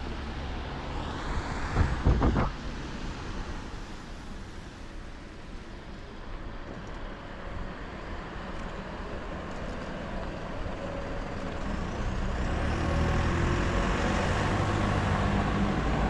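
Street traffic: a heavy road vehicle's engine hums low and grows louder over the last few seconds, over a steady wash of traffic noise. About two seconds in there is a short, loud burst of sharp sounds.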